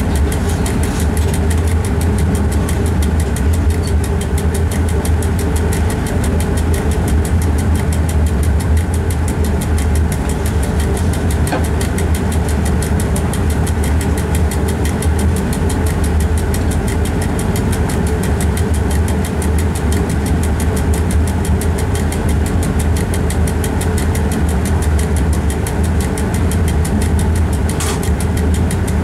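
A train running along the track, heard from inside the driver's cab: a steady, loud low drone from the traction and running gear that does not change.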